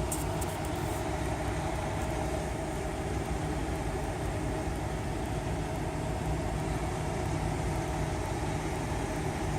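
Truck engine idling steadily: a constant low rumble with a held mid-pitched tone and a few faint clicks just after the start.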